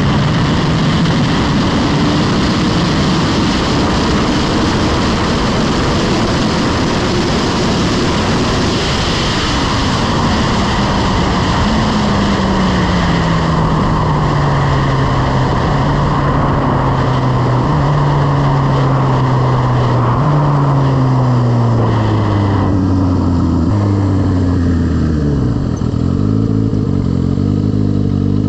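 Turbocharged Suzuki Hayabusa engine heard from on the bike as it slows down, with heavy wind noise on the microphone. The engine pitch falls steadily and jumps back up several times as it is shifted down, and the wind noise dies away over the last few seconds as the bike rolls slowly at low revs.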